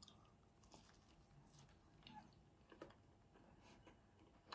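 Faint chewing: a few soft, scattered mouth clicks, otherwise near silence.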